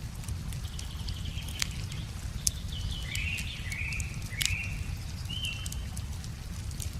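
Wood fire crackling with scattered sharp pops over a steady low rumble, while a songbird repeats short chirping calls several times through the middle.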